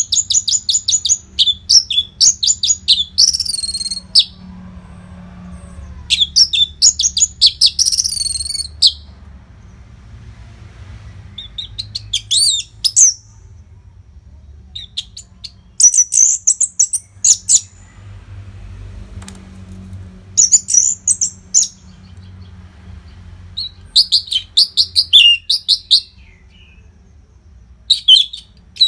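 Orange-headed thrush singing: bursts of rapid, high, varied notes, each phrase lasting one to three seconds with short pauses between, repeated over and over. A faint low hum lies underneath.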